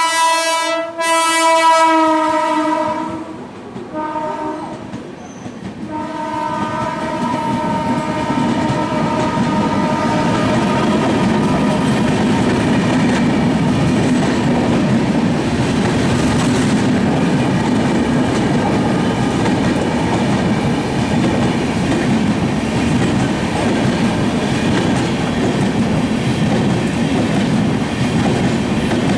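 Diesel locomotive horn: a long blast, a short one about four seconds in, and another that fades out a few seconds later. The train then runs past, its wheels clattering steadily over the rails.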